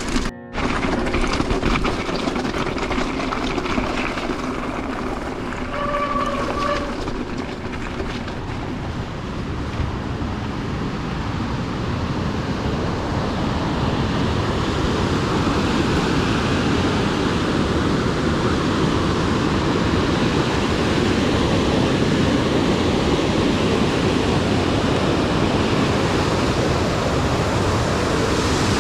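Continuous rushing, rumbling noise of a mountain bike being ridden along a rough trail, growing louder through the second half as the noise of rushing rain-swollen water comes in. A short high squeal sounds about six seconds in.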